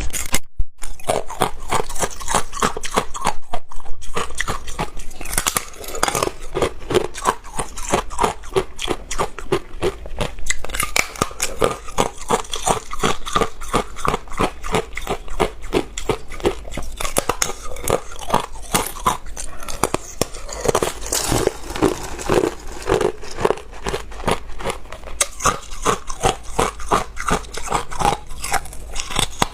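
A person biting and chewing ice: a steady run of crisp crunches, several a second, with no pause.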